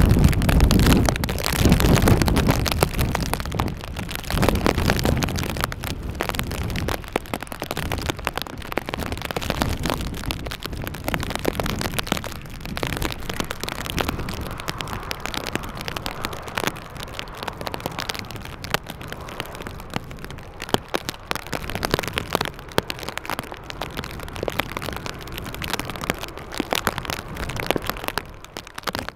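Strong gusty wind buffeting the microphone, with rain crackling on it, loudest in the first few seconds and easing after.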